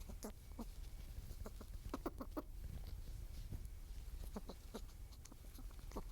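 Short, irregular clicks or clucks from an animal, with a quick run of four or five about two seconds in, over a steady low rumble.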